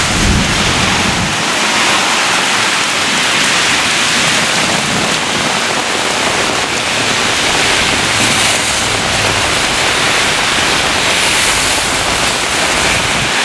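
Heavy thunderstorm rain pouring down steadily: a loud, even downpour.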